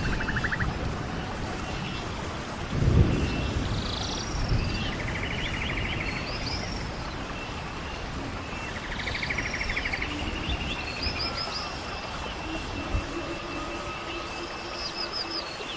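A small bird singing the same short phrase every few seconds: a buzzy trill with clear arching notes above it, over a low background rumble that swells briefly about three seconds in.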